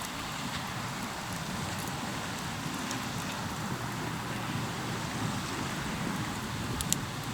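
Hardwood campfire crackling over a steady wash of noise, with scattered small pops and one sharper pop near the end.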